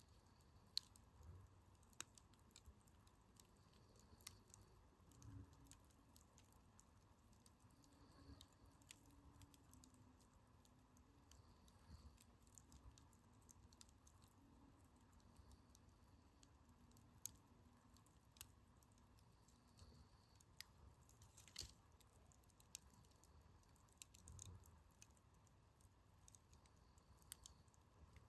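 Wood campfire crackling softly, with sharp irregular pops and snaps, the loudest shortly after the start and again about 21 seconds in.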